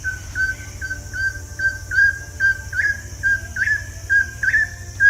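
Red-breasted partridge calling: a repeated whistled note, about two a second, each opening with a short upward flick, growing louder toward the middle.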